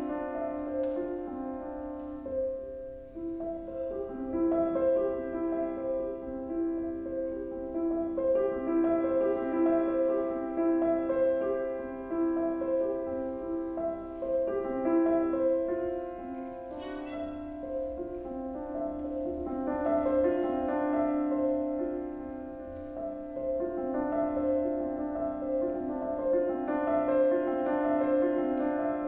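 Contemporary chamber music for piano trio: piano, violin and cello playing sustained, overlapping notes, with the piano's struck attacks standing out now and then.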